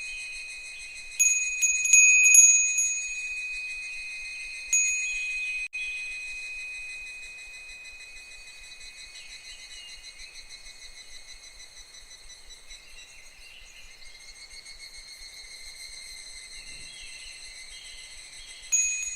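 Japanese furin wind bell tinkling in the breeze. It strikes a few times in quick succession in the first seconds, once more about five seconds in and again near the end, each ring fading slowly. Under it runs a steady chorus of higurashi (evening cicadas).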